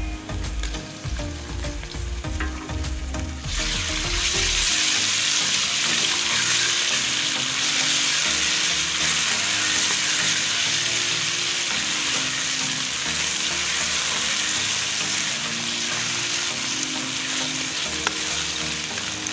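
Golden-fried onions sizzling in hot oil while a ladle stirs them. About three and a half seconds in, garlic-ginger paste goes into the oil and the sizzle jumps suddenly to a much louder, hissier frying, which then holds steady.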